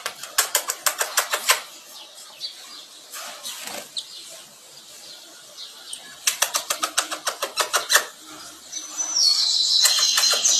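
Female double-collared seedeater (coleiro) fluttering its wings in two quick runs of rapid clicks, about eight to ten a second, with a short high chirp near the end.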